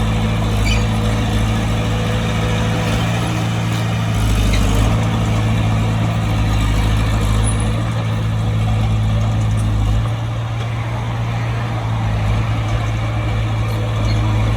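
Bulldozer's diesel engine running steadily, a deep even engine drone with a slight drop in level about ten seconds in.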